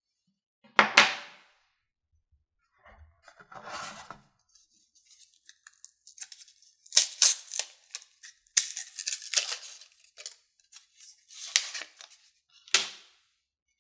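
Packaging being handled and opened: a sharp click about a second in, another near the end, and bursts of crackling, tearing rustle in between.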